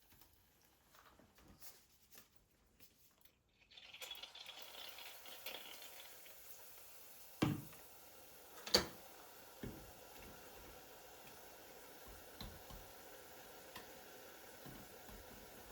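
Quiet indoor handling sounds: a few soft clicks, then a faint steady hiss begins, with two sharp knocks about a second apart and a few lighter taps after.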